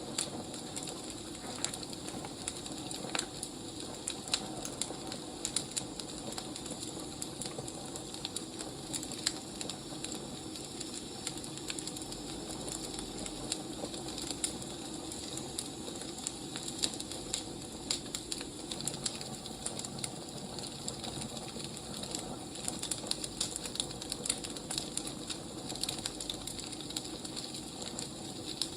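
Wood fire crackling: a steady low hiss with many irregular sharp pops and snaps from burning logs.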